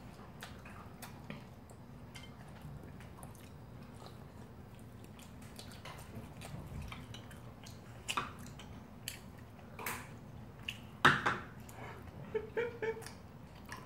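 People chewing and biting into fried snacks and rice cakes close to the microphone: soft wet mouth sounds with scattered small clicks of chopsticks, and a few louder bites near the end.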